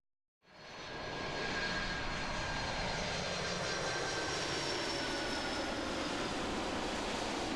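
Jet airliner engines running as the plane passes: a steady rush that fades in about half a second in, with a faint whine slowly falling in pitch.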